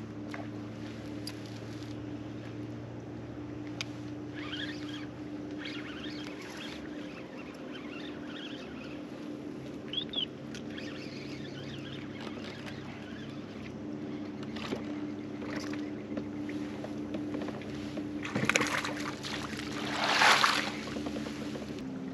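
Electric trolling motor (MotorGuide Xi3) humming steadily on a kayak, with water lapping and small knocks against the hull, and two louder noisy rushes near the end.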